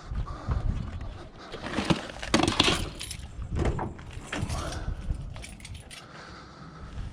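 Scrap metal pieces being handled and loaded, clattering and clinking in a string of irregular knocks, the loudest about two and a half seconds in.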